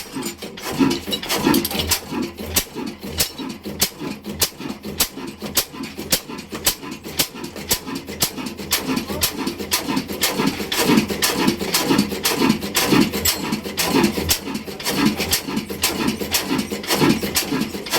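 Ruston Hornsby single-cylinder oil engine chugging in a steady, fast rhythm, each beat a sharp click with a chuff, about three to four a second.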